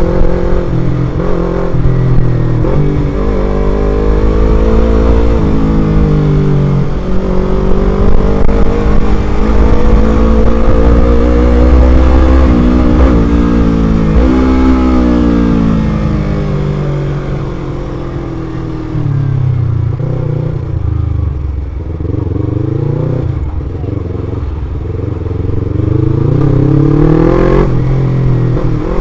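Motorcycle engine running while riding, its pitch rising and falling several times as it accelerates and eases off, with heavy wind rumble on the microphone for the first half or so.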